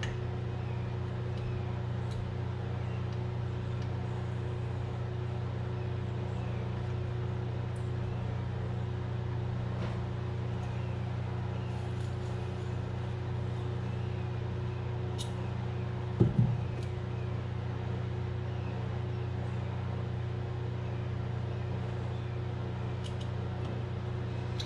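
A steady machine hum runs throughout, with scattered faint light clicks of small parts and tools being handled. A brief, louder knock comes about 16 seconds in.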